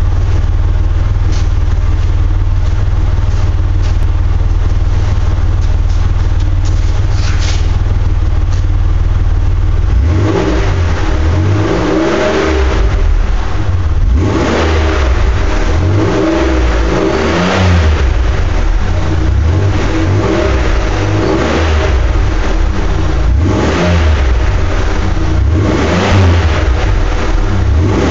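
2004 Chevrolet Monte Carlo LS's 3.4-litre V6 through an aftermarket dual exhaust with stainless tips, idling steadily with a deep low drone, then revved again and again from about ten seconds in, each rev rising and falling back every two to three seconds.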